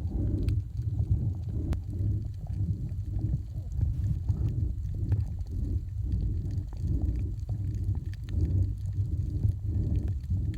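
Muffled low rumble of water moving against an action camera's waterproof housing while snorkeling, swelling and fading in uneven pulses, with faint scattered clicks.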